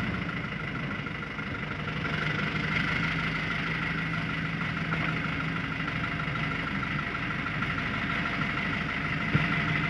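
Truck engine idling steadily, a continuous hum with a thin high tone held over it.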